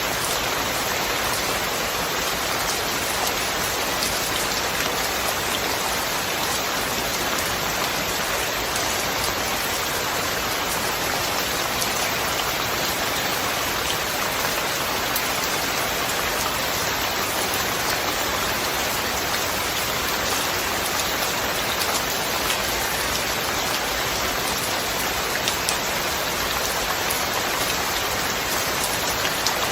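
Steady rain, an even hiss with faint ticks of single drops scattered through it.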